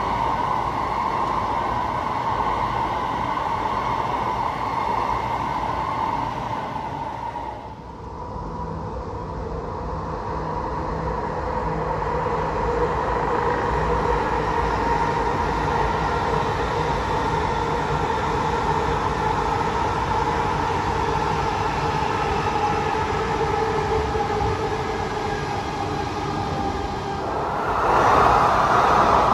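Chinese high-speed electric train running: a steady rush of wheels and air with whining tones over it. The sound changes abruptly about eight seconds in and grows louder near the end.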